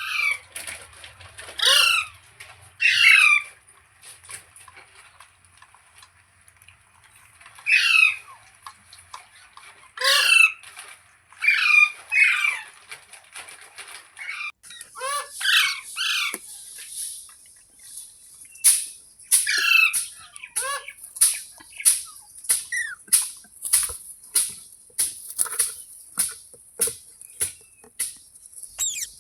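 Pet green parrot giving repeated harsh squawks, each falling in pitch. They come a second or two apart at first, then faster, about two a second, in the second half. A thin steady high hiss runs beneath them.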